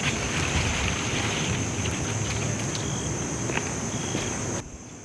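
Outdoor ambience: wind rumbling on the microphone with a continuous high insect trill, cutting off suddenly near the end.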